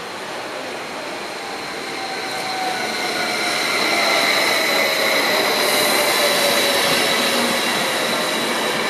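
SBB double-deck electric multiple unit running past close by: a rush of wheels on rail that swells over the first few seconds, with steady high whining tones on top.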